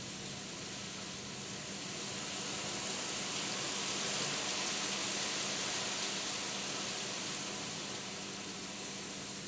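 Heavy thunderstorm rain pouring down in a steady hiss. It swells louder in the middle and then eases back slightly.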